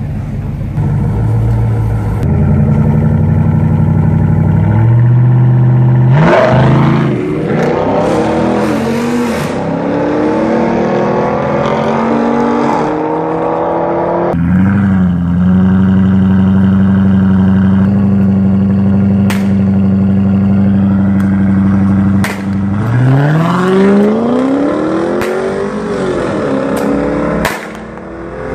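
Chevrolet Camaro engine and exhaust revving in rising and falling blips, then held at a steady high pitch for several seconds while smoke rises from the spinning tyres in a burnout, then rising sharply as the car accelerates away.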